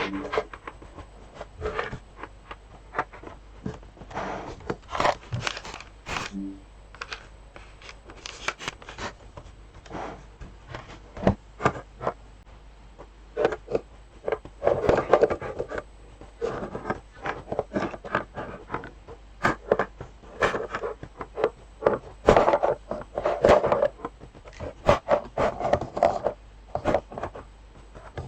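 Small sewing supplies being handled and sorted in a sewing box: irregular clicks, knocks and rattles of small items, with spells of rustling and scraping.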